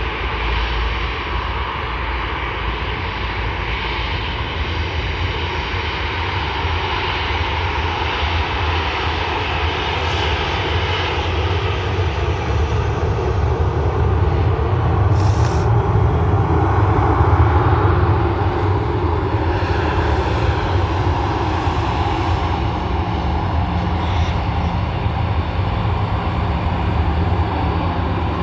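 Virgin Australia Boeing 737's jet engines at take-off thrust. The steady jet noise builds to its loudest a little past the middle, then slowly fades as the aircraft moves away.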